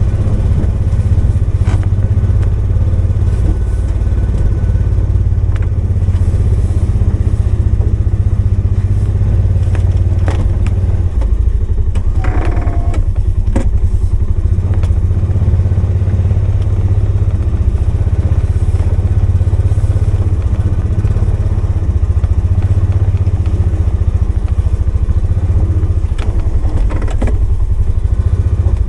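Polaris 570 utility vehicle's single-cylinder engine running steadily under load in low gear while plowing snow with the blade down, with occasional clunks from the plow and a brief rising squeal about twelve seconds in.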